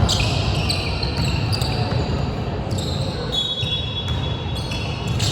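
Basketball being bounced on a gym court during a game, over the steady background noise of a large echoing hall.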